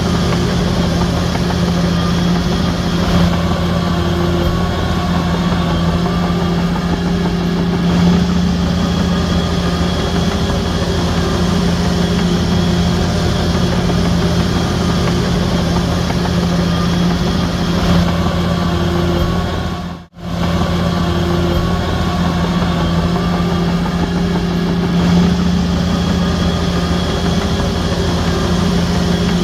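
Bulldozer's diesel engine running steadily with a deep, even drone. The sound cuts out briefly about twenty seconds in, then resumes unchanged.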